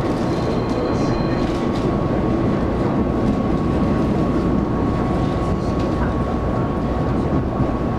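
Taiwan Railway local electric multiple-unit train running along the line, heard from inside the carriage: a steady rolling rumble with a thin steady whine above it.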